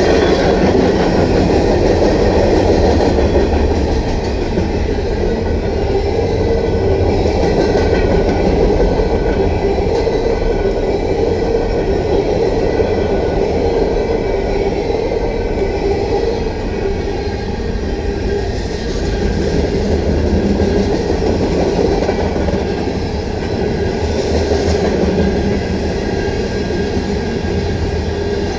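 Freight cars of a CSX manifest train rolling past, a steady loud noise of steel wheels on the rails.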